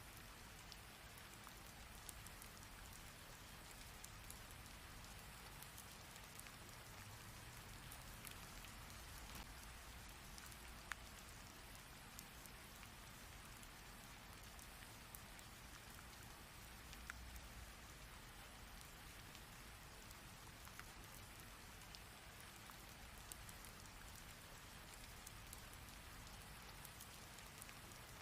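Steady heavy rain falling, an even hiss dotted with sharp drop ticks, two of them plainly louder, about a third of the way in and again a little past halfway.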